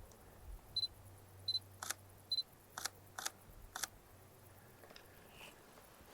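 Sony mirrorless camera taking photos: three short high focus-confirmation beeps as the autofocus locks, with four sharp shutter clicks among and after them, within about three seconds.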